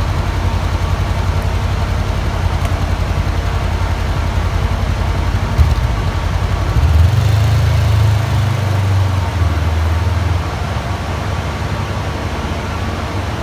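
Motorcycle engine idling with a steady low pulse. A sharp click comes about halfway through, then the engine revs higher and louder for about three seconds before dropping back to a lower running note.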